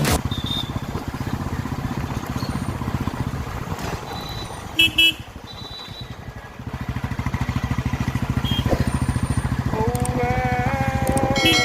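Motorcycle engine running under way with a rapid low pulsing beat, easing off about four seconds in and pulling again a couple of seconds later. Two quick horn beeps come about five seconds in, and a longer horn sounds near the end.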